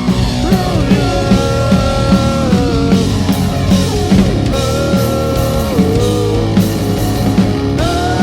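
Live grunge rock band playing: a drum kit keeps a steady beat under guitars, with a melody line of long held notes that slide up and down in pitch.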